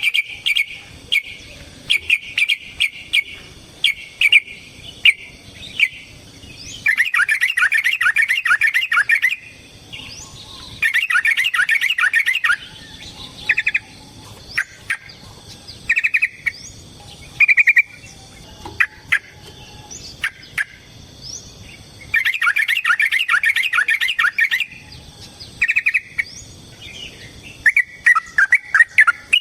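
Yellow-vented bulbul (trucukan) singing in long, rapid chattering runs of bubbly notes, each two to three seconds long, alternating with shorter phrases and single notes.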